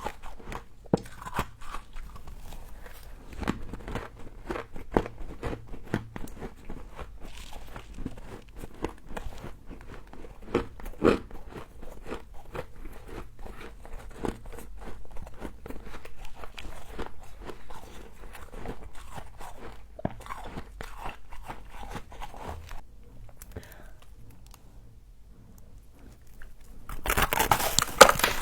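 Crisp crunching and chewing of frozen humidifier frost, close to the microphone: many sharp crunches in quick succession. A louder, denser scraping noise starts near the end.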